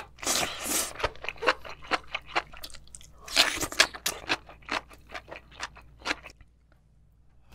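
Close-miked chewing of a mouthful of spicy braised enoki mushrooms: a quick run of short crunches and mouth clicks that stops about a second before the end.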